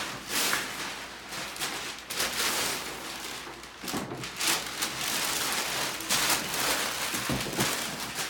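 Packaging being torn open and handled: irregular crackling and rustling of tape, cardboard and plastic wrap, with a few knocks.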